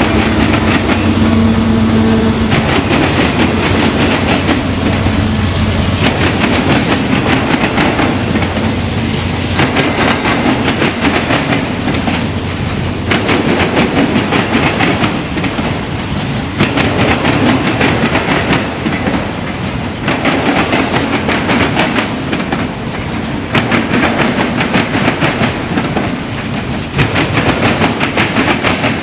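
Train rolling slowly past, its wheels clacking over the rail joints, growing louder every few seconds as each car's wheel sets go by. A steady low hum sits under the clatter in the first few seconds.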